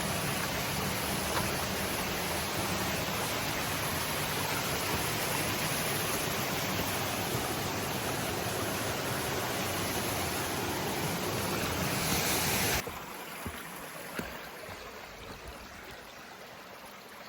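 Creek water running steadily over rocks, a full, even rush that cuts off abruptly about thirteen seconds in, leaving only a much fainter sound of water.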